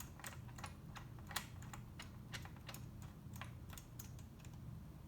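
Light, irregular clicks, three or four a second, from hand tools working the bolts on a jet pump case as they are run in one by one.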